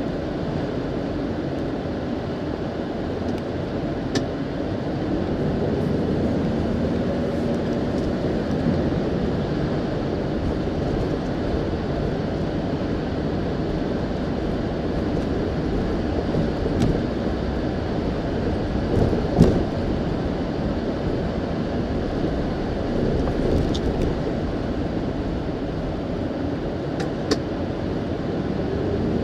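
Ford Expedition driving, heard from inside the cabin: a steady mix of engine and tyre road noise, with a few light clicks or knocks.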